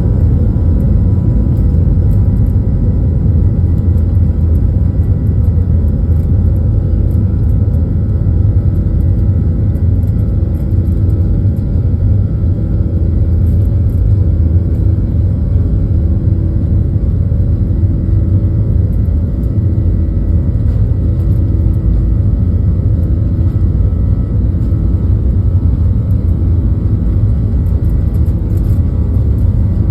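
Steady rumble of a Boeing 737-900ER's CFM56-7B engines and airflow heard inside the cabin, with a faint hum that swells and fades about every second and a half.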